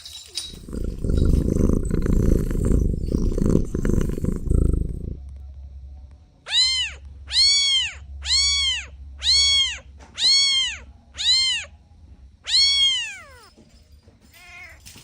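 A cat purring for about five seconds, then meowing seven times in a row, about one a second, each meow rising and falling in pitch.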